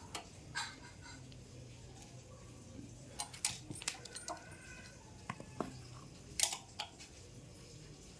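Scattered light metallic clicks and clinks of a hex (Allen) key and small metal parts being handled while the gear mechanism is unbolted from an electric bike's rear hub-motor wheel. The clinks come in a quick cluster about three seconds in and again a few times around five to seven seconds.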